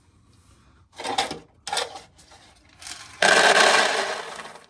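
Dry shelled corn kernels rattling and scraping: a few short scrapes, then a longer, louder rush of kernels from about three seconds in.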